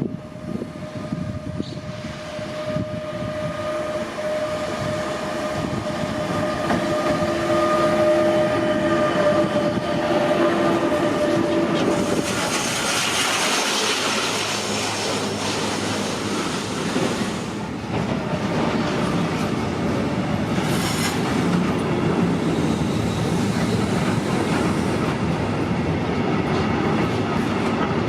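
A train passing through the station, its wheels clattering over the rails. A steady tone sounds over the approach for about the first twelve seconds, then gives way to the loud rush of the carriages going by.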